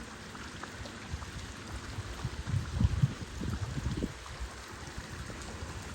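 Water splashing and trickling close by, with many small drips and irregular low thumps that are loudest around the middle.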